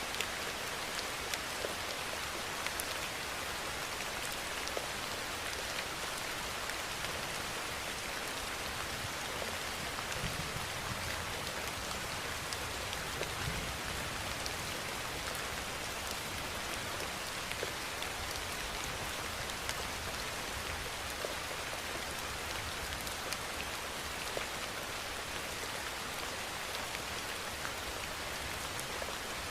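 Steady heavy rainfall: an even hiss with scattered sharper drop ticks.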